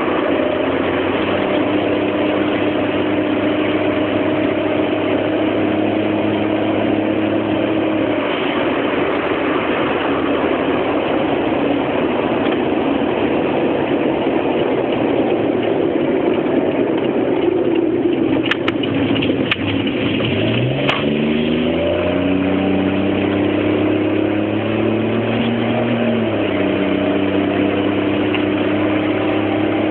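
Car engine running steadily over a wash of noise. A few sharp clicks come a little before twenty seconds in, then the engine speed rises, holds for about five seconds and drops back. Recorded to check for an abnormal noise that the owner hopes has gone.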